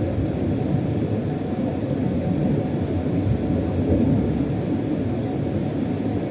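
Steady low rumble of a German freight train heard inside the locomotive's driver's cab while it runs.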